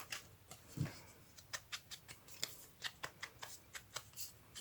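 Paper craft pieces being handled at a table: a soft thud just under a second in, then a quick run of small sharp clicks or snips, about three a second.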